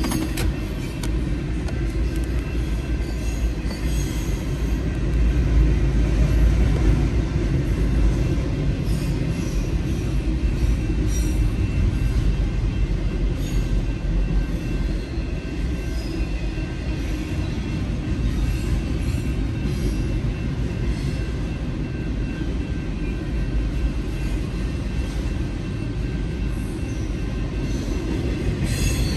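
Union Pacific intermodal freight train rolling through a grade crossing: a steady heavy rumble of container cars and wheels, with faint clanks. The crossing warning bell rings in a steady high tone over it.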